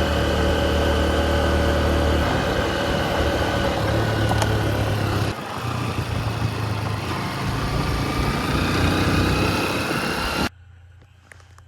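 Honda XR150L's small single-cylinder engine running under way, with a rush of noise around it. Its pitch drops about five seconds in, then climbs steadily as it speeds up, and the sound cuts off abruptly near the end.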